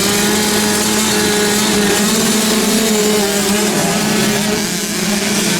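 Youth motocross bike's small two-stroke engine running at high revs, its note held steady with slight wavers in pitch.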